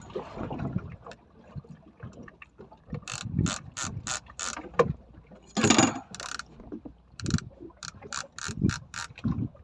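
Fishing reel ratchet clicking in short, irregular runs, a few clicks a second, starting about three seconds in.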